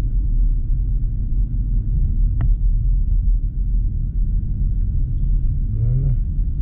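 Steady low rumble of a BMW i4 M50 electric car driving: road and wind noise with no engine note. A single sharp click comes about two and a half seconds in.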